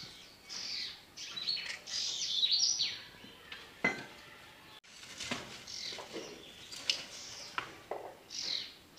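Small birds chirping over and over, short high calls that sweep downward in pitch, with a single sharp click about four seconds in.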